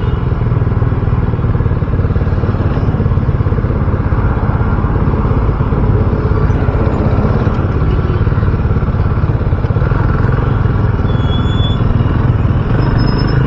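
RUSI Classic 250 motorcycle being ridden at a steady pace, its engine note even with no revving up or down.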